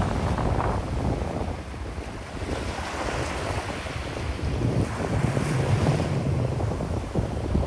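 Ocean waves breaking on a sandy beach, mixed with strong wind buffeting the microphone in low rumbling gusts that swell again near the end.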